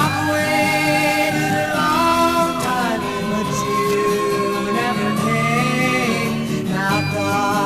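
Early-1960s pop ballad record with a singer holding long notes that swoop up and down between them, over a guitar-led band backing.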